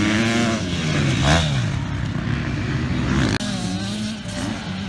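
Motocross dirt bike engine revving up and down as the bike is ridden hard, with an abrupt cut about three and a half seconds in.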